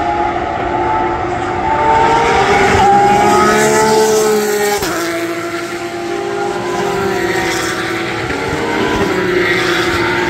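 Porsche race car engine accelerating hard, its pitch climbing, with an upshift about five seconds in where the pitch drops sharply before it climbs again.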